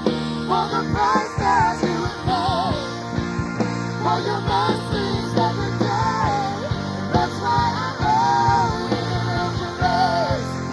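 Live worship band music: sustained chords and a steady bass with a wavering melodic lead line on top.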